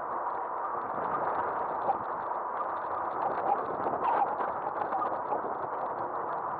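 Steady rush of wind and tyre noise from an e-bike riding along pavement, picked up by a camera mounted on the front of the bike, with small ticks and rattles.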